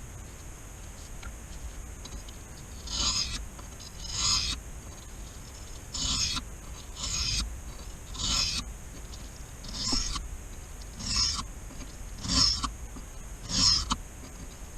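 Pocket knife blade scraped along a wet 400-grit whetstone in nine even strokes, about one a second, starting about three seconds in.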